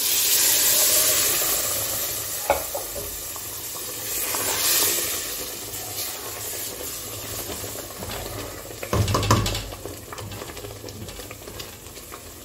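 Stock water poured into ground egusi frying in hot red palm oil sets off a loud sizzle that slowly dies down. About nine seconds in, a wooden spoon stirs and scrapes against the aluminium pot.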